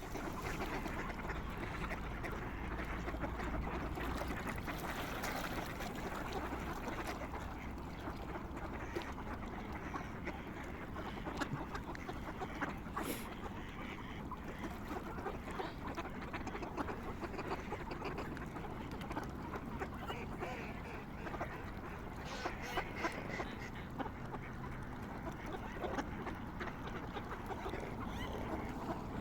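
A flock of waterfowl, swans among them, calling continuously in a dense, overlapping chorus.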